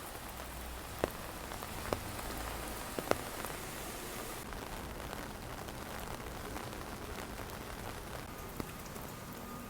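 Kimchi pancake batter frying in oil in a pan, a steady dense sizzle with a few sharp clicks about one, two and three seconds in.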